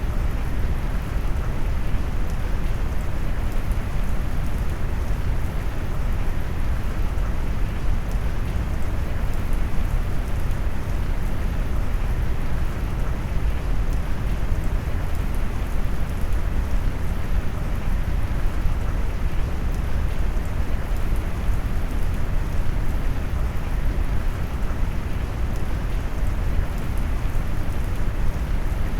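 Steady rain noise mixed with deep brown noise, low and rumbling, unchanging throughout.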